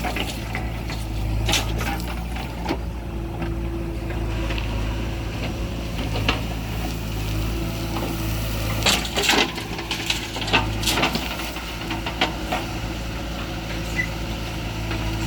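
Diesel engine of a JCB 3DX backhoe loader running steadily, with scattered knocks and clatters, a cluster of them about nine to eleven seconds in.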